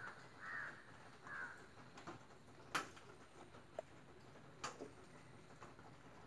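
Faint outdoor background with a bird giving three short, harsh calls near the start, then two sharp clicks later on.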